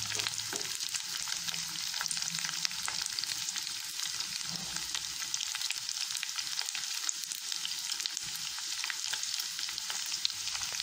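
Chicken pieces and freshly added sliced onions frying in a hot, oily non-stick kadai: a steady, dense sizzle and crackle.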